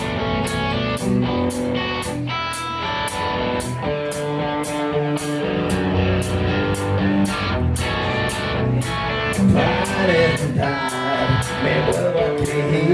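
Live melodic hard rock band playing: electric guitars holding chords over a steady cymbal beat, with a singer's voice coming in about ten seconds in.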